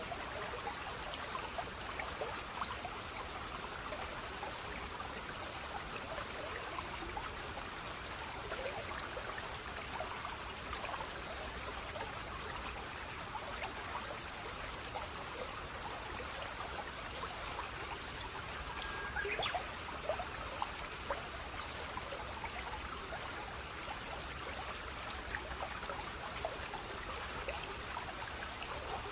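Running water trickling and splashing steadily, like a small stream, with many small bright droplet plinks over an even rush.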